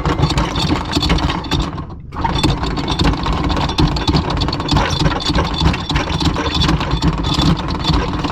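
A motor running steadily with a rattle, cutting out briefly about two seconds in.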